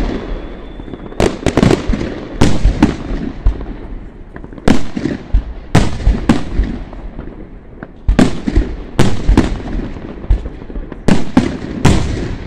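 Aerial firework shells bursting overhead: sharp bangs in irregular clusters, two or three within a second, each trailing off in a fading rumble.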